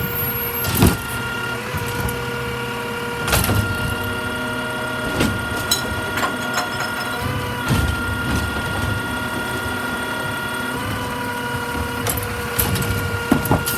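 Recycling truck running, with a steady high whine over the engine rumble and sharp clanks or bangs every few seconds.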